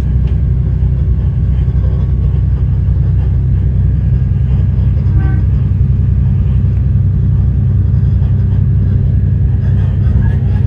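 Endeavour diesel railcar running at speed, a steady deep rumble heard from inside the carriage.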